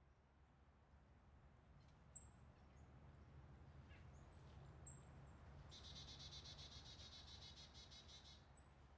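Faint outdoor birdsong, very quiet: a few short high chirps, and from about halfway a rapid trill lasting about three seconds, over a low steady hum.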